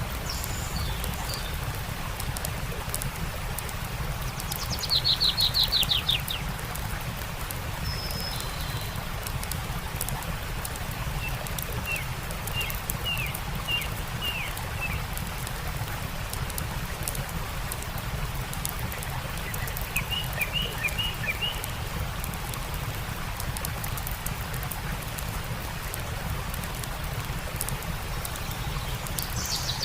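Steady rushing of a stream under birdsong: a fast, falling trill about five seconds in is the loudest sound, with runs of short chirps around twelve and twenty seconds and a few single calls. Faint small clicks, like a campfire crackling, are scattered through the first half.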